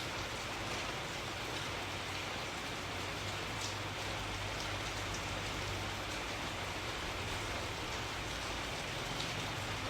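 Steady rain falling: an even hiss with a few faint drop ticks here and there.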